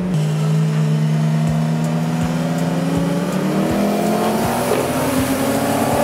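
Turbocharged RB30 straight-six in a Holden VL Commodore, heard from inside the cabin, running steadily under load and then slowly rising in pitch as the car accelerates through the second half.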